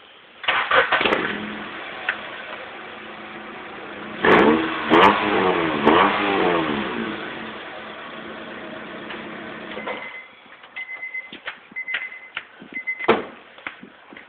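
Honda Stream's engine running with no muffler fitted: it is started about half a second in, idles loud and raw, and is revved in several blips. It shuts off about ten seconds in, followed by scattered clicks and knocks and a few short beeps.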